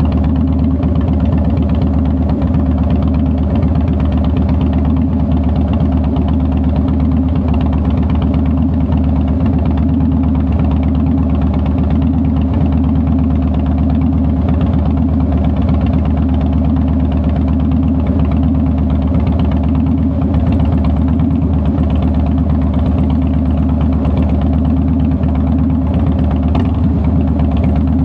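The V-twin engine of a 2009 Harley-Davidson Softail Deluxe running at a steady, unchanging speed, with no revving up or down.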